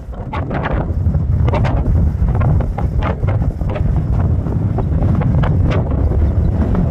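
Strong wind buffeting the microphone: a heavy, steady low rumble, with many short gusty crackles scattered through it.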